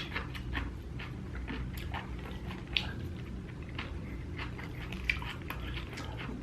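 Close-up chewing and eating: an irregular run of small wet mouth smacks and clicks over a low steady hum.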